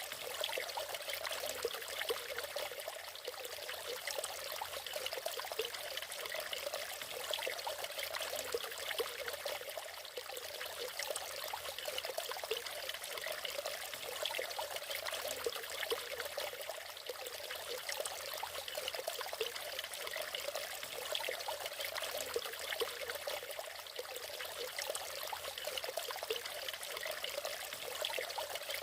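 Natural waterfall: water splashing and trickling steadily, an even rushing hiss with little deep rumble.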